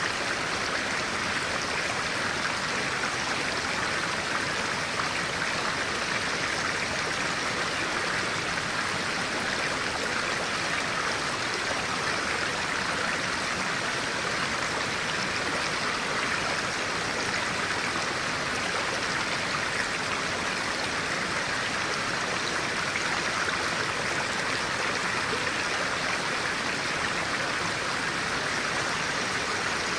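Clear stream water flowing and splashing steadily over rocks, a constant rushing burble.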